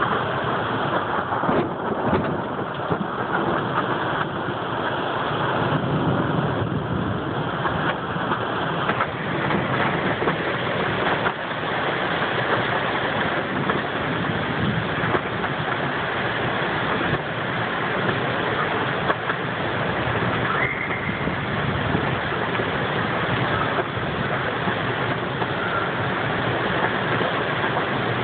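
Heavy rain falling steadily in a storm downpour.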